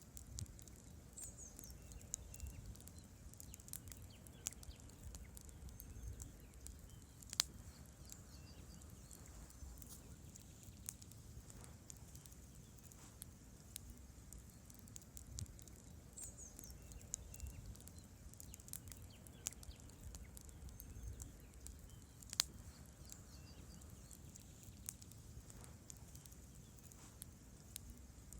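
Wood campfire burning: a low rumble of flames with scattered crackles from the logs and two louder pops, about a quarter and three quarters of the way through.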